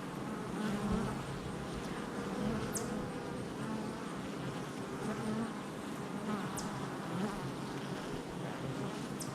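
Many honey bees buzzing at the hive entrance: a steady hum, with the wavering drone of single bees swelling and fading as they fly close past. Three brief, faint, high chirps come a few seconds apart.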